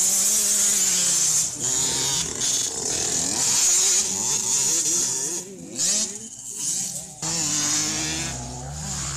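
Several small two-stroke 65/85 cc motocross bikes revving, their engine notes rising and falling and overlapping as they ride. The sound dips briefly a little past halfway, then settles to a steadier, lower note.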